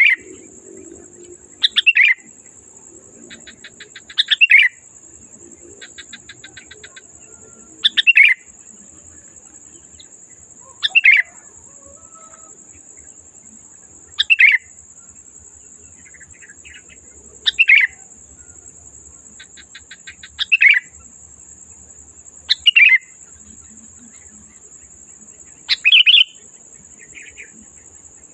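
Sooty-headed bulbul singing in full, loud voice: short clear phrases about every three seconds, with faint rapid chattering between some of them. A steady high-pitched whine runs underneath.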